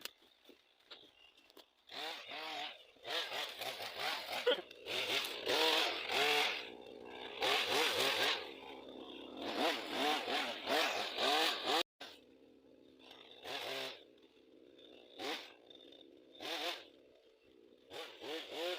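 Two-stroke chainsaw delimbing felled spruce, revving up and dropping back over and over as it cuts off branches. After a break about twelve seconds in, it comes in shorter, quieter bursts.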